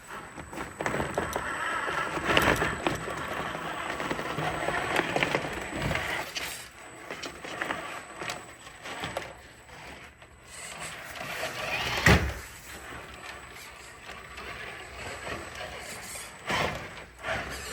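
Brushed electric motor of a radio-controlled crawler truck whining in uneven spurts as it drives. A sharp knock comes about twelve seconds in, and a smaller one near the end.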